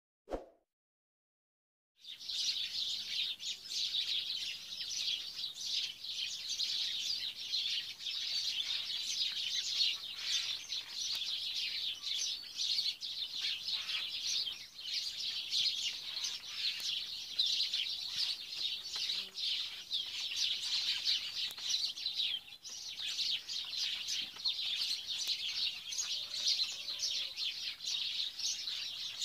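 A chorus of many small birds chirping continuously, starting about two seconds in.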